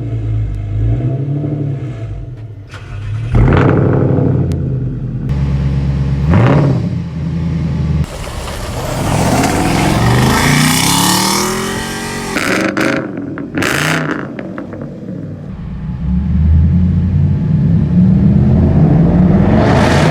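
Audi A8 V8 through an aftermarket exhaust, revving and accelerating in a string of short spliced clips, loud, its pitch rising and falling with each rev.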